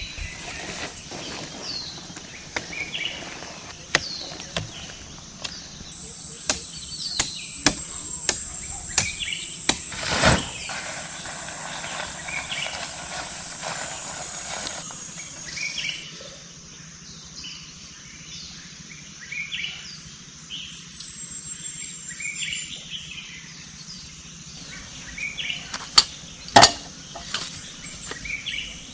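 Forest birds chirping in short repeated calls, with sharp knocks and clicks of something being handled scattered through, the loudest about ten seconds in and near the end. A steady high buzz joins from about six to sixteen seconds in.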